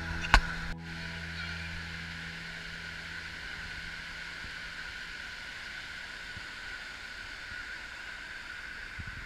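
Steady rush of flowing water, with a sharp click just after the start.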